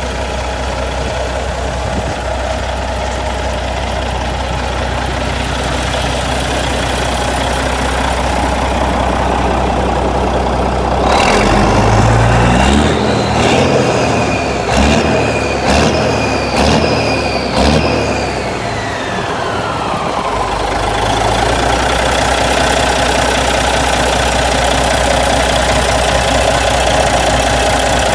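Caterpillar 3406B inline-six diesel in a 1993 Peterbilt 379 idling, then revved up a little before halfway with several quick throttle blips, before its pitch glides back down and it settles to a steady idle.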